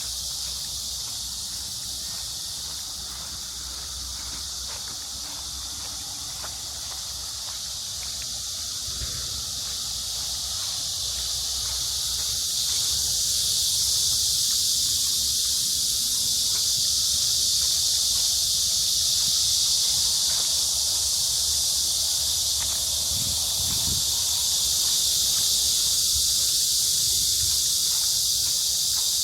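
Cicadas singing in a dense, steady chorus, a high shrill buzz that grows louder about twelve seconds in.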